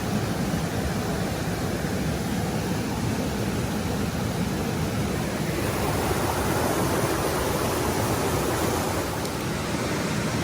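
Mountain stream water rushing over rocks, a steady full hiss that grows a little brighter and louder about six seconds in.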